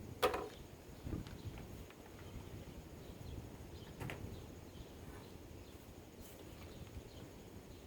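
A few faint clicks and a dull knock over low background noise: the sound of parts being handled.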